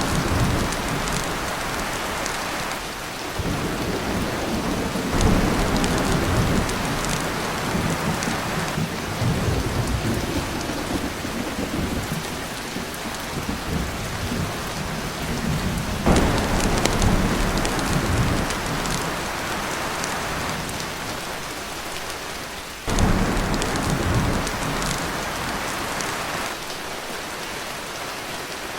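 Heavy rain pouring on a tin roof, with several rolls of thunder: one about five seconds in, one near the middle and one about three-quarters of the way through.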